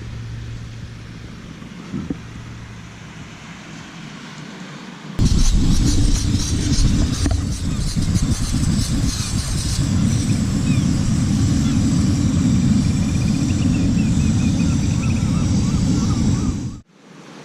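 Wind buffeting the microphone as a loud low rumble over the wash of surf on a pebble beach; it comes in suddenly about five seconds in and cuts off abruptly near the end.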